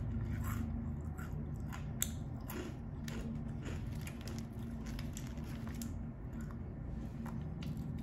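Crunchy snack being bitten and chewed close to the microphone: irregular crisp crunches, a sharp one about two seconds in, over a steady low hum.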